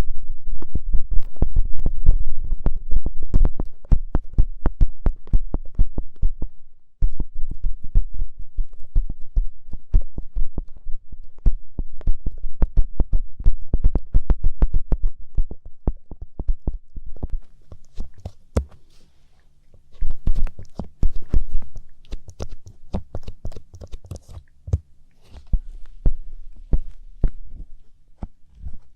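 Light-up ear pick scraping and rubbing close up: a dense run of clicks and scratches with deep thuds. It stops briefly about seven seconds in, and from about halfway on the strokes turn lighter, quieter and scratchier.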